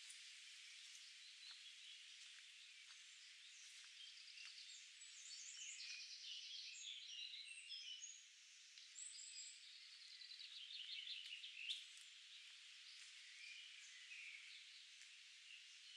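Woodland songbirds singing over a steady hiss. Two runs of quick trilling, repeated notes come about a third of the way in and again a little past halfway. A few faint clicks fall between them, with one sharper click near the end of the second run.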